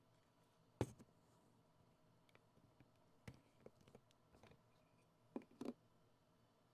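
Clicks and small ticks from handling a Nikon D2X camera and its controls: one sharp click about a second in, a run of faint ticks, then two clicks close together near the end.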